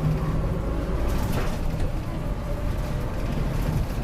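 Route bus running, heard from inside the cabin: a steady low engine drone with road noise and a few faint rattles.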